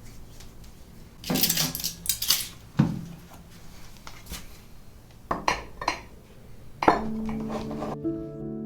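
Dishes and cutlery clinking and clattering in a few separate bursts as they are handled, with the loudest knocks about a second and a half in and near the end.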